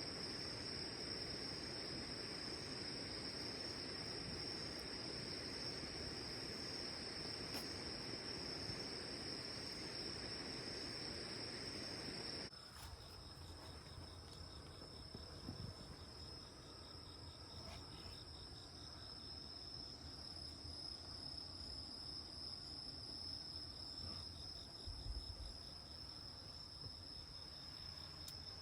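Crickets chirring in one steady, continuous high trill. About twelve seconds in, the background hiss drops away abruptly while the insect song carries on.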